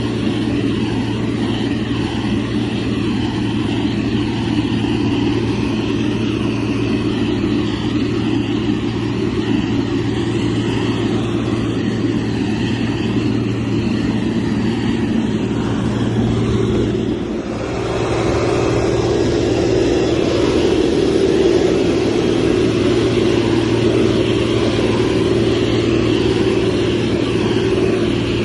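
Motor grader's diesel engine running steadily under load, with a deep constant hum. It dips briefly about two-thirds of the way through, then runs a little louder.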